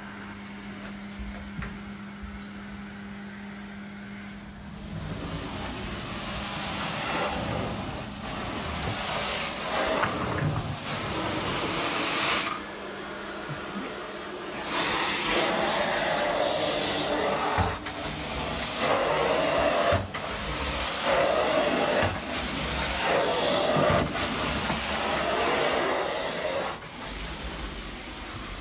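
Carpet-cleaning extraction machine at work: a steady hum at first, then from about five seconds in loud hissing suction that swells and drops in repeated strokes as the wand is passed over the wet carpet.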